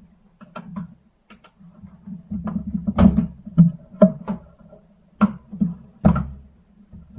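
Irregular knocks and clicks of the impact wrench's parts and tools being handled during repair work, with several louder knocks roughly a second apart.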